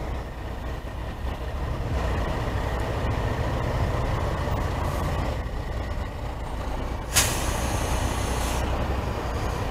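Suzuki V-Strom 650's V-twin engine running in traffic with road noise, getting louder about two seconds in. A sudden hiss cuts in about seven seconds in and lasts about a second and a half.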